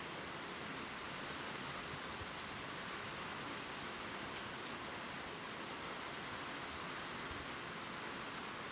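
Gentle rain ticking on leaves: a steady hiss with a few scattered drop ticks.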